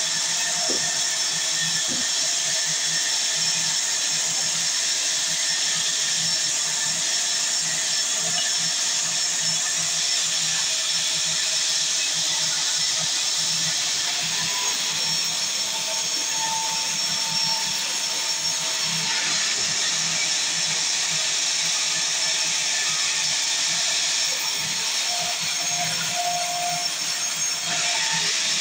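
A sawmill saw running and cutting timber, a steady high hiss with no break.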